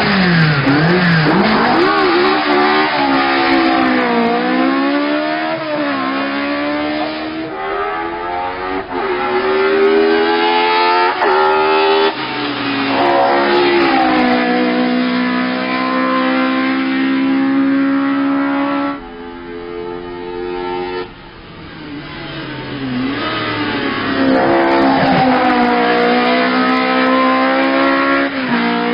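Zakspeed Ford Escort Mk2 race car engine running loud and hard. Its note climbs and drops again and again, and it falls briefly quieter and lower about two-thirds of the way through before climbing again.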